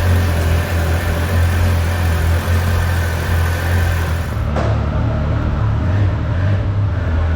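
Triumph Speed Triple 1200's inline-three engine running steadily under way, with a constant low engine hum beneath rushing wind noise.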